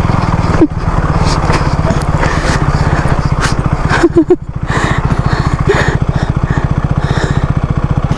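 Motorcycle engine running at a steady low speed, with a fast, even chugging beat and a short dip about four seconds in.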